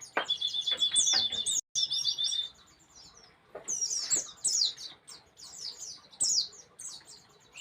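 White-eye (pleci) singing: rapid, high chirps of quick falling notes over a steady high trill for the first couple of seconds. After that it is quieter, with further bursts of chirps about four and six seconds in.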